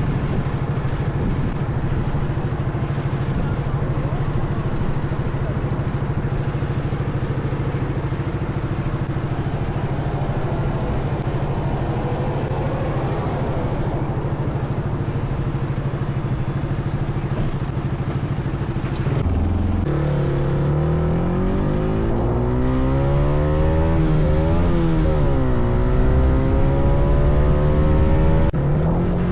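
Motorcycle engine running steadily at a constant pitch, then, after a sudden break about two-thirds of the way in, revving up and down repeatedly.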